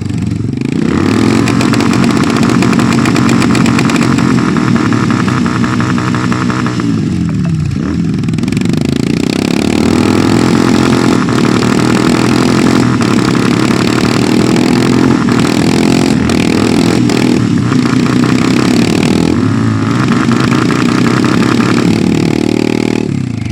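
Royal Enfield motorcycle engine revved hard and held at high revs, its pitch dropping once about seven seconds in and then climbing back up and holding high until near the end.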